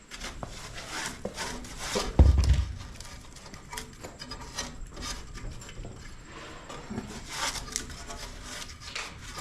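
Rubbing and scraping of hand work on metal and wooden parts, with one heavy thud about two seconds in.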